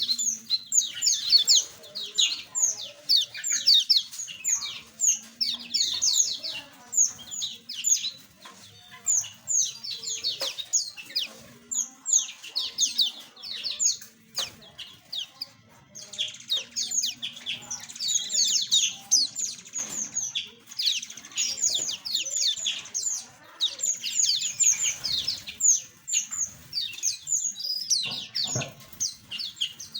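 A flock of small aviary birds chirping continuously: many short, high, quick downward-sweeping chirps overlapping several times a second.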